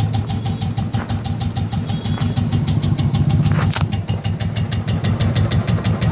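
Royal Enfield motorcycle engine idling with a rapid, even metallic tik-tik ticking over its steady running. The uploader traces the tick to the decompressor gear and does not consider it a serious fault.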